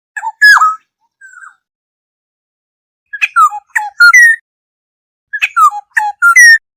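Black-hooded oriole calling: three short phrases of loud whistled notes, several gliding down in pitch, with silent gaps between them. A lure call to draw others of its kind.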